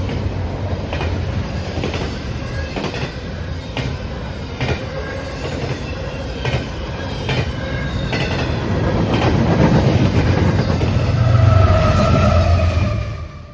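Railroad cars rolling past close by, a low rumble with the wheels clicking over rail joints about once a second. A steady wheel squeal joins in near the end.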